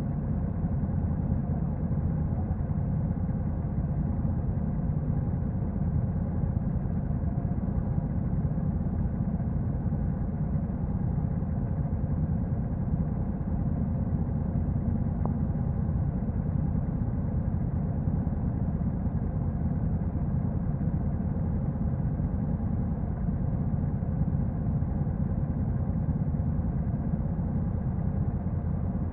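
Honda NC750X's parallel-twin engine running on its stock exhaust, a steady low drone with no change in pitch.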